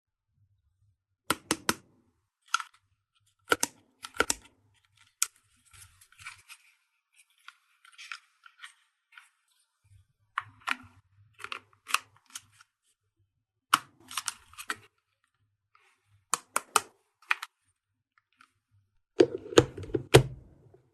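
Small plastic toy pieces and packaging handled up close: sharp clicks and taps in small clusters, a stretch of soft crinkling around the middle, and a heavier run of knocks near the end.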